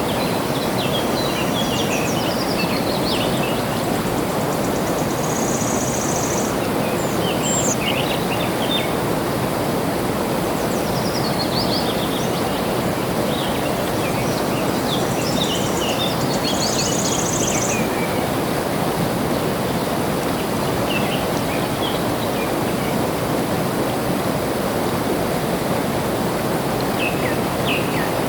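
Steady rushing of flowing water, with small birds chirping and twittering in scattered bursts over it. Twice a short, high buzzing trill stands out.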